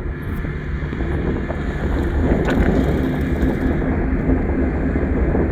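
An engine running steadily at a constant speed, with some wind on the microphone.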